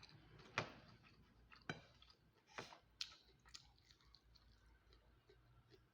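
A person chewing food with the mouth close to the microphone: a handful of sharp wet clicks and smacks in the first few seconds, then fainter chewing.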